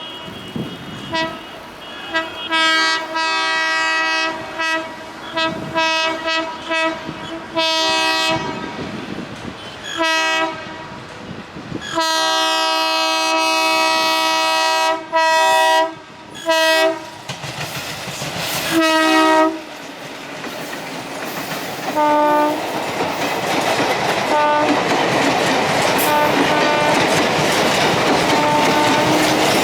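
Alco WDG3A diesel locomotive sounding its horn again and again in long and short blasts as it approaches. Over the last third the train passes close by: a loud, steady rush with wheels clacking over the rail joints, and a few more short toots.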